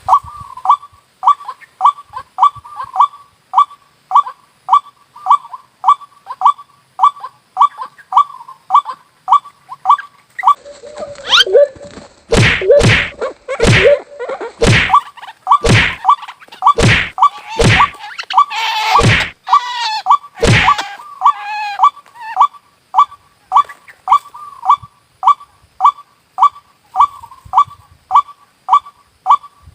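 White-breasted waterhen lure call repeating about twice a second. From about 11 to 21 seconds in, a flurry of about nine loud thumps and harsher bird cries breaks in: a waterhen attacking the lure.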